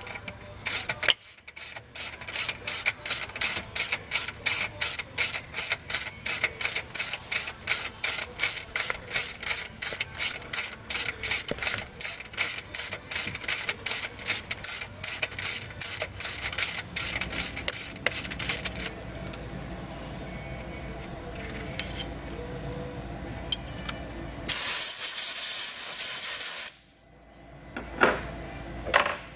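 Ratchet wrench clicking steadily, about three clicks a second, as the Time-Sert tap is wound back out of a head bolt hole in the aluminum cylinder head. Near the end comes a loud hiss of about two seconds, a blast of compressed air blowing the chips out of the hole.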